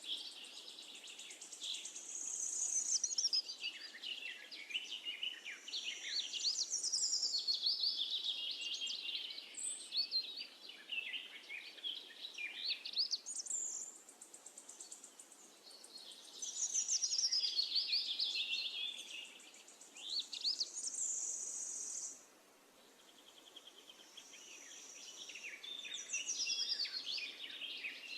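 Songbirds singing, several overlapping chirping and warbling songs, with a short lull about two-thirds of the way through.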